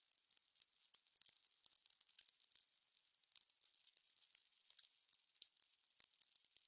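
Faint fire crackling: irregular sharp pops and snaps over a soft, steady hiss.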